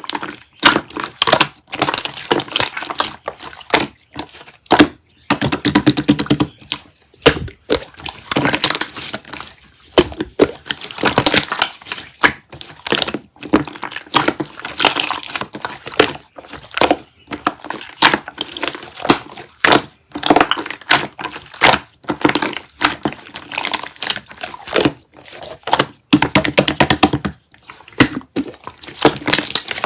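Close, loud crunching and crackling: irregular clusters of sharp cracks and crumpling noises that come and go in bursts.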